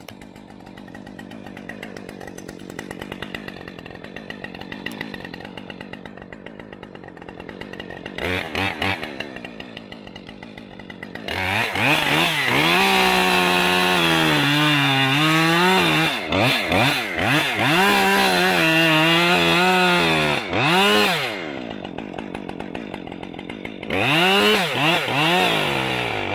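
Chainsaw idling, with a brief blip of the throttle, then revved hard for about ten seconds as it cuts through a section of tree, its pitch sagging and recovering. It drops back to idle and is revved again near the end.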